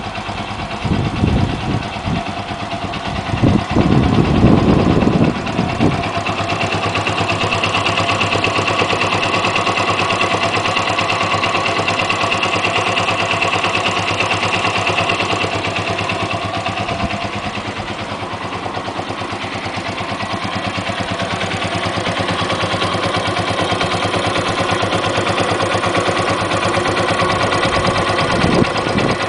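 Yamaha XT125's air-cooled single-cylinder four-stroke engine idling, with a high-pitched clicking from the top of the engine that has only recently appeared at about 1100 miles; the owner is unsure whether it is normal or a fault. Uneven low thumps in the first six seconds, then steady running.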